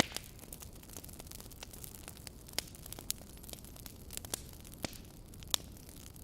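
Wood fire crackling in a fireplace: irregular sharp pops and snaps over a low steady hiss, with a louder pop right at the start and another about five and a half seconds in.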